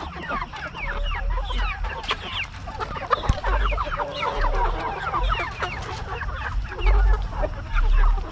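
A flock of meat chickens clucking and calling over one another in a dense, continuous chatter of short, quick, falling calls. The birds are stirred up as their feeding time nears.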